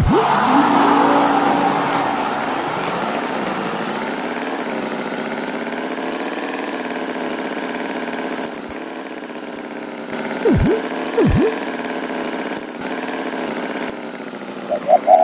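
An engine running steadily, its pitch wavering slightly, a little louder in the first couple of seconds. About two-thirds of the way through come two quick swooping sounds that dip low and rise again.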